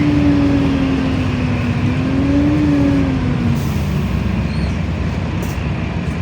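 LiAZ-5292.65 city bus running, heard from aboard: a steady low rumble with a whine that slowly falls in pitch, rises briefly, then drops away about four seconds in.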